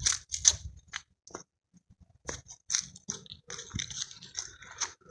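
Footsteps crunching on dry ground, a few steps about half a second apart, pausing briefly and then coming more densely.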